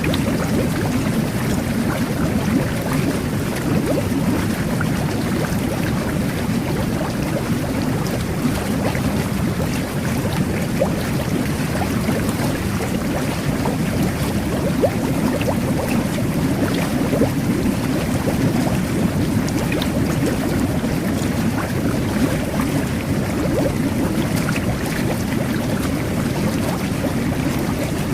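Jet bath (whirlpool tub) churning the water with its bubble jets: a steady low rush of water and air, speckled with small bubble pops.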